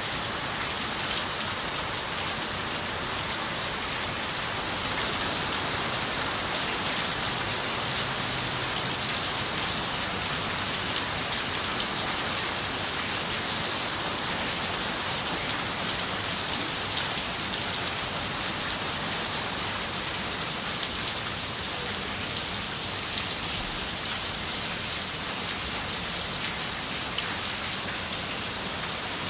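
Steady rain falling on a window pane: an even hiss with scattered sharper drop ticks, swelling slightly a few seconds in and easing back later.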